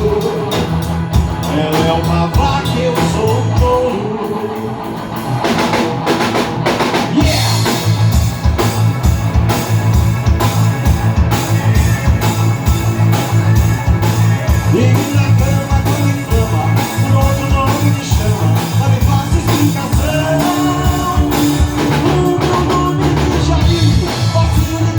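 Live band playing a song, with the drum kit keeping a steady beat under bass and guitar. The band drops back briefly about four seconds in, then comes back in fuller.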